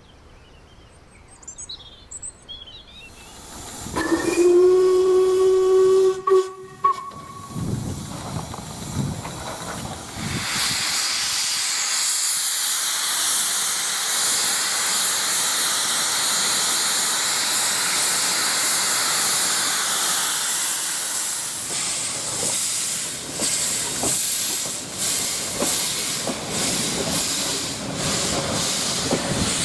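A steam locomotive whistle blows one steady note for about three seconds, about four seconds in. From about ten seconds in a loud, steady hiss of steam follows and holds.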